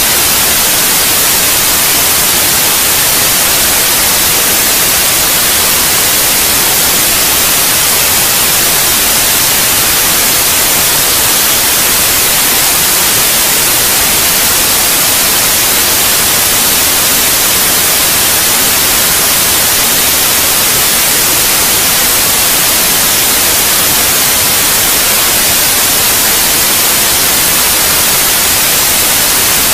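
Steady white noise: an even, unbroken hiss, brightest in the high end, with no change in level.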